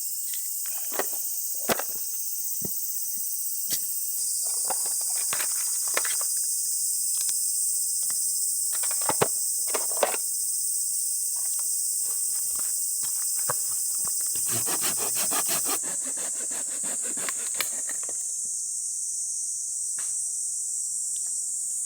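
A steady, high insect chorus, with scattered clicks and knocks of handling over it and a short run of rapid scraping strokes about fifteen seconds in.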